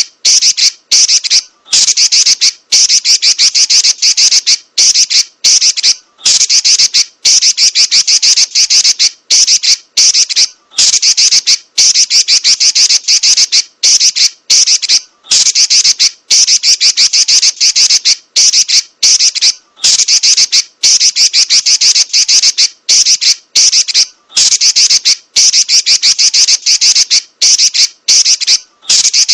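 Female Pekin robin (red-billed leiothrix) giving a loud, very rapid chattering trill. The trill comes in runs of about a second or more, with brief breaks between them.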